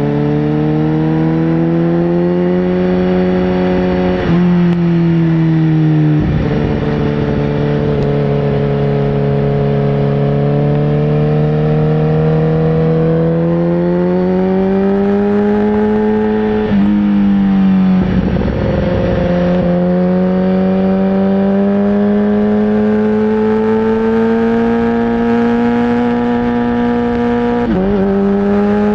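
Sportbike engine under way, its pitch climbing slowly in long pulls and breaking off briefly with a dip several times, as at gear changes.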